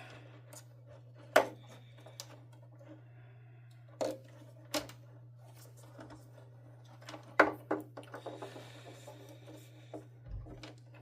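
Small plastic vacuum-cleaner parts and wiring being handled on a workbench: a few sharp clicks and taps, then a flurry of small clicks in the second half, over a steady low hum.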